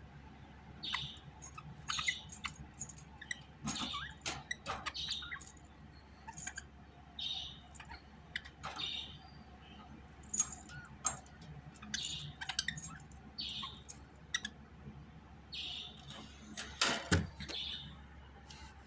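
Budgerigar chirping: short calls repeating about once a second, mixed with quick chattering clicks.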